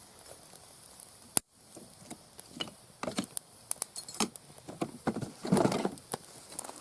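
Wood fire crackling in a small fire stand, with scattered sharp pops and snaps that come thicker in the second half, and a brief rustling burst about five and a half seconds in.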